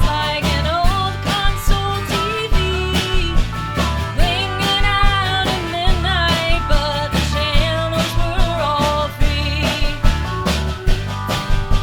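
Americana band playing a country-rock song live: a steady drum beat, bass and acoustic guitar under a sliding, wavering lead melody.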